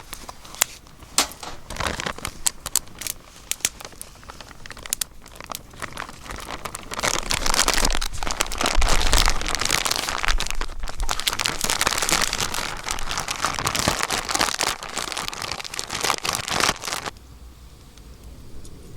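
Dry tinder being crumpled and handled: scattered sharp snaps at first, then a dense crinkling and crackling for about ten seconds that stops abruptly near the end.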